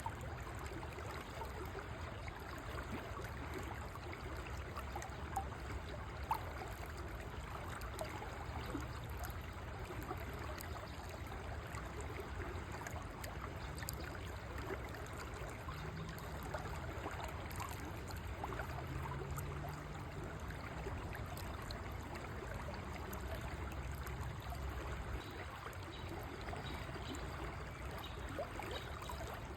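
River water flowing steadily, a continuous rushing with a deep low rumble. Two brief clicks about five and six seconds in.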